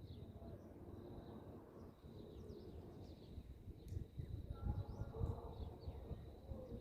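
Faint birds chirping at dawn, short high calls scattered throughout, over low rumbling background noise that grows louder about halfway through. A thin steady high tone runs underneath.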